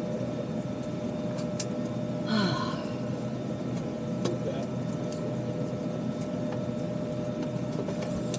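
Steady hum of an Airbus A320 cabin's ventilation while the plane sits at the gate during boarding, with a steady tone over a low rush. A brief voice comes about two seconds in, and there are scattered light clicks.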